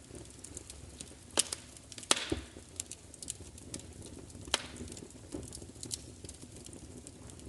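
Wood fire crackling, with irregular sharp pops and snaps. A louder pop about two seconds in is followed by a brief hiss.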